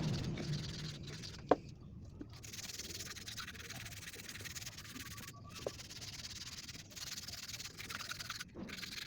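Steady rubbing and scrubbing of an engine piston being cleaned, a dry scratchy hiss, with one sharp click about a second and a half in.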